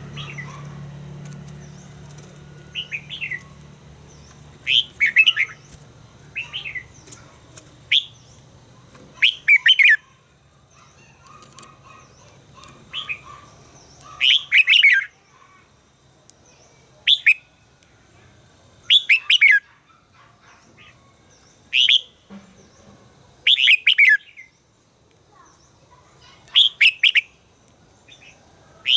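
Red-whiskered bulbul singing short, bright warbled phrases, one every two to three seconds. A low hum sits underneath for about the first ten seconds.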